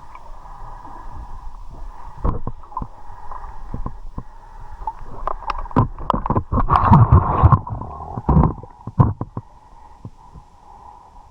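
River water sloshing and gurgling around a handheld camera as a swimmer moves through the water, with scattered knocks and a louder stretch of splashing in the middle.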